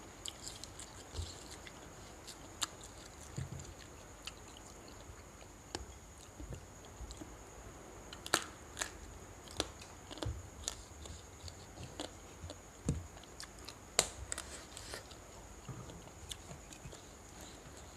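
A person chewing and biting food close to the microphone: irregular wet crunches and sharp clicks, the loudest about eight and fourteen seconds in, over a steady thin high whine.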